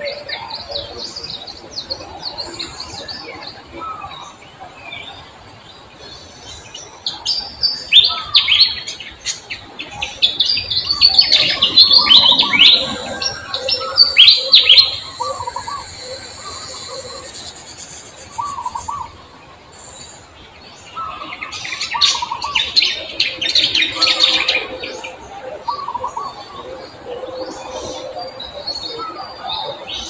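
Birds chirping in loud bursts of rapid, high chirps, strongest through the middle and again later, with quieter, lower short calls in between.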